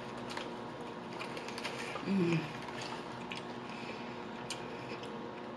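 Close-miked chewing of a mouthful of cheeseburger: many small wet clicks and crunches of the food being chewed. A brief low, falling hum of the voice comes about two seconds in.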